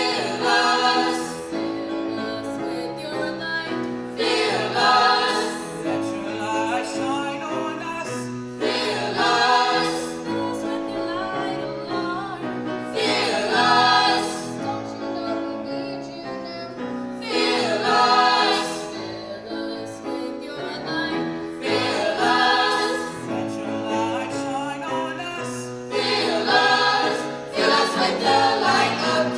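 High school choir singing a holiday piece, many voices in sustained chords, with phrases swelling louder about every four seconds.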